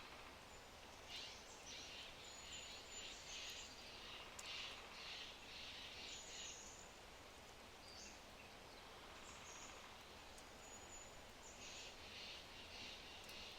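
Songbirds singing in the trees: a run of quick repeated notes from about a second in to about seven seconds, a few short high chirps, then more song near the end. Underneath, a low oak fire crackles faintly with the odd small pop.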